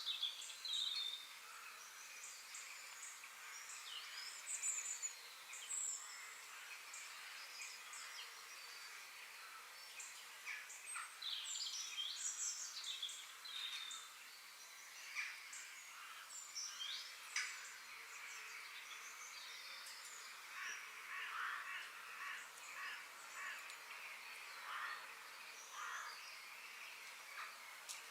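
Several birds chirping and calling, many short overlapping calls and trills with no long pauses.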